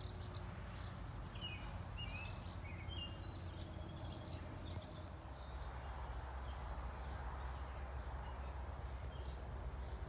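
Outdoor ambience: a steady low rumble with a few short bird chirps and trills about one to three seconds in, and fainter chirps now and then after.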